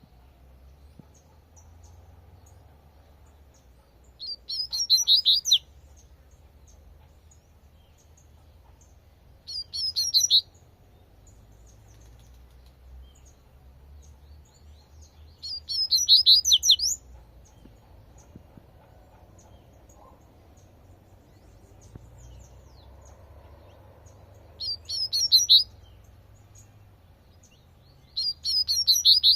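Double-collared seedeater (coleirinho) singing its 'tui-tui' song type: five phrases of about a second each, made of quick high repeated notes and several seconds apart, with a faint low rumble underneath.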